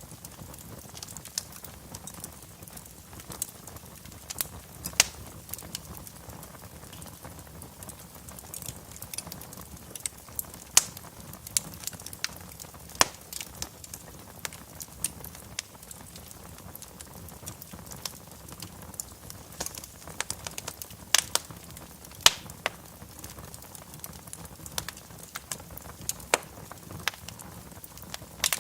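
Wood fire crackling in a fireplace: irregular sharp pops and snaps over a low steady hiss, a few of them much louder than the rest.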